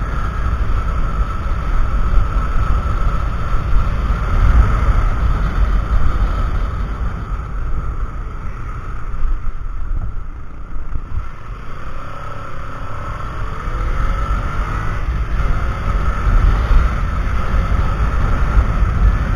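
Heavy wind rumble on a mounted action camera's microphone while riding a Kawasaki Ninja 300 motorcycle. The rumble eases briefly midway, and a faint rising engine note comes through after the lull.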